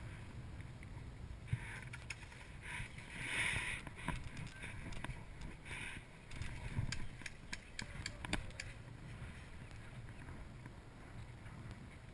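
Steady low rumble of wind and movement on a body-worn action camera, with bursts of rustling and several sharp clicks, the clicks clustered near the end.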